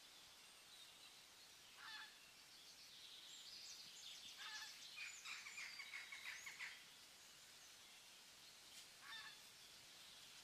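Faint bird calls over a quiet hiss: a short call about two seconds in, a quick chattering run of calls in the middle, and another short call near the end.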